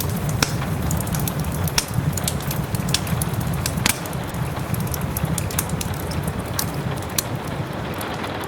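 Wood fire in a fireplace crackling, with irregular sharp pops over a steady low rush, and soft rain in the background.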